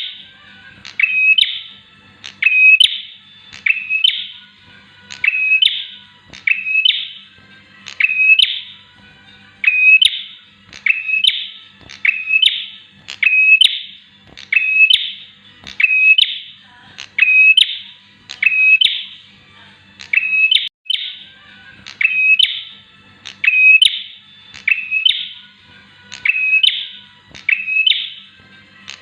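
Bar-winged prinia singing, a sharp chirping call repeated roughly once a second without a break.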